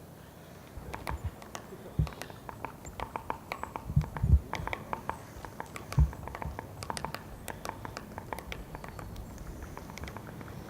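Three-toed woodpecker pecking at wood: irregular taps, several a second, with a few heavier knocks among them.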